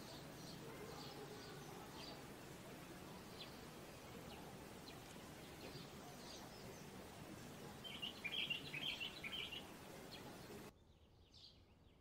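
Birds chirping: scattered short, high calls over a steady outdoor background hiss, with a busier run of chattering calls near the end. The background then drops suddenly and quieter single calls follow.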